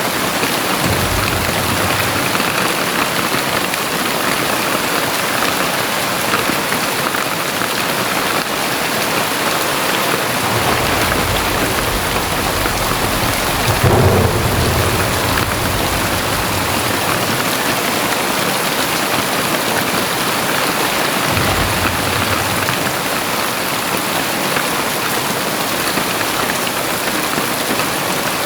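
Very heavy rain pouring steadily. About halfway through, a low rumble of thunder swells, peaks and fades over several seconds, with shorter low rumbles near the start and about three quarters of the way in.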